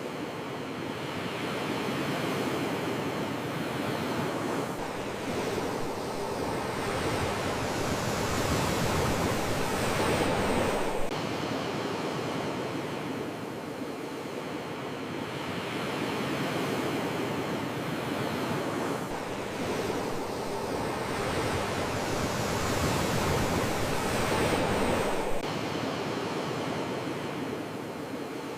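Sea waves washing in: a continuous rush of surf that twice builds over several seconds and then drops off sharply.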